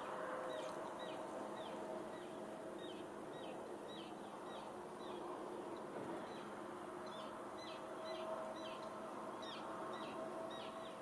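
A small bird calling over and over in short, falling chirps, about two a second, over a faint steady outdoor background.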